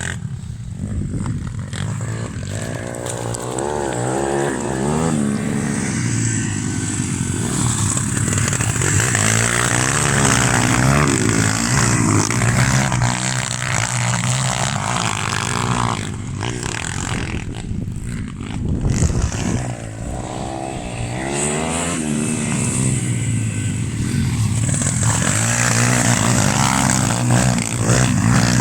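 Pit bike engine being ridden hard off-road, revving up and down with its pitch rising and falling over and over as the throttle opens and closes.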